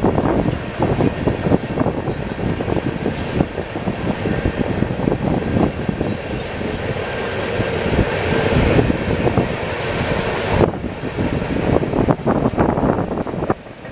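Freight train rolling past, cars running loudly on the rails with an irregular clatter.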